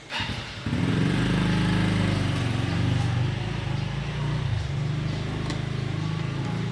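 A motor starts and runs with a steady low hum, stepping up in level under a second in.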